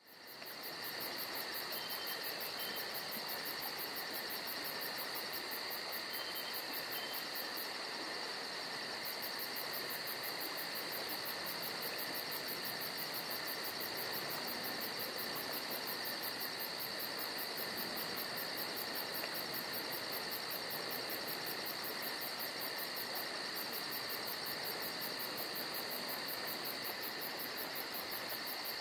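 Steady insect chorus: a continuous high trill with a fast, even pulsing above it, fading in at the very start.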